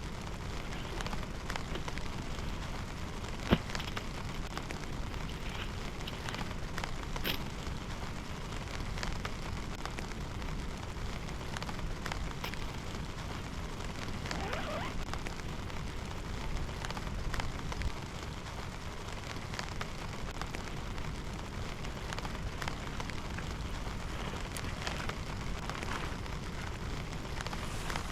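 Steady rain falling, with scattered crackling ticks of drops throughout and one sharp knock about three and a half seconds in.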